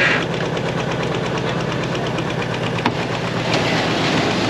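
An engine idling steadily with an even, knocking rhythm, and a single sharp click about three seconds in.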